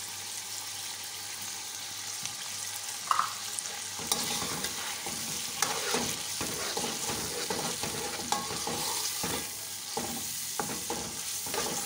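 Beef pieces and yogurt sizzling as they are stir-fried (bhuna) in a metal pot, with a slotted metal spoon scraping and clinking against the pot. The stirring strokes grow busier about four seconds in.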